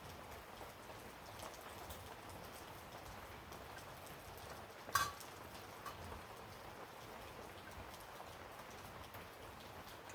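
A faint, steady patter of small ticks, with one sharp clink about halfway through.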